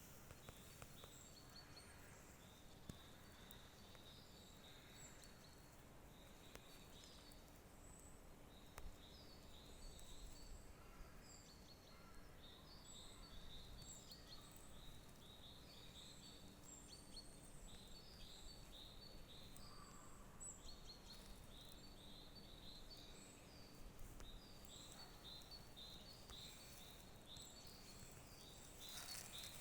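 Faint birdsong: small songbirds giving many short, high chirps, busier through the second half, over a faint low hum.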